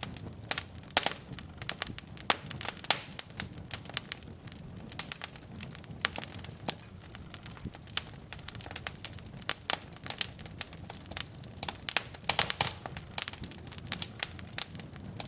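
Wood logs burning in a fireplace: irregular sharp crackles and pops over a low, steady flame rumble, with a quick run of louder pops near the end.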